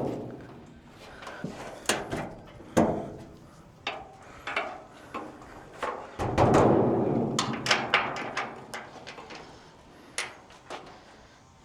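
Knocks, clunks and clicks of a car hood being handled and set onto its hinges, with a longer scraping rustle starting about six seconds in.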